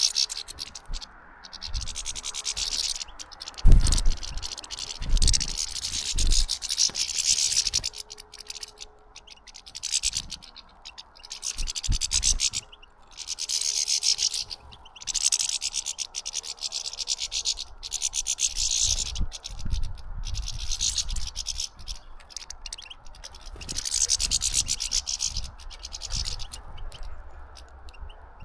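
European goldfinches twittering in rapid, tinkling high-pitched trills, phrase after phrase with short pauses. A few low thumps, the loudest about four seconds in.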